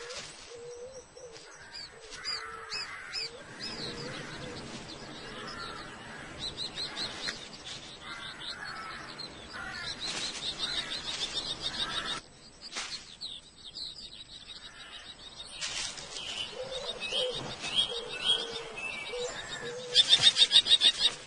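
Common kestrels calling: repeated short, shrill calls, ending in a loud, fast run of about ten calls near the end.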